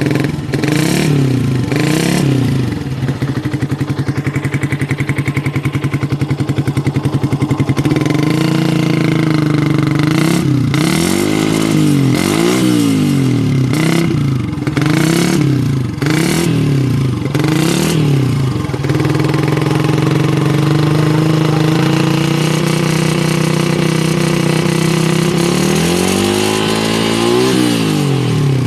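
Yamaha Vixion's 150 cc single-cylinder four-stroke engine, fitted with an aftermarket 'FU' exhaust, idling and being blipped on the throttle: a few quick revs at first, a steady idle, then a run of about ten short revs in a row, a steady stretch, and one more rev near the end.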